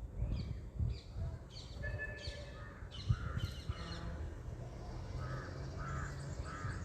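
Birds calling: a run of short, repeated calls, ending with three short lower-pitched calls close together near the end.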